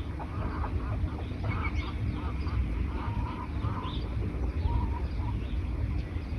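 Wild birds calling: a quick run of short, harsh calls for the first few seconds, then only a few more, with scattered higher chirps throughout, over a steady low rumble.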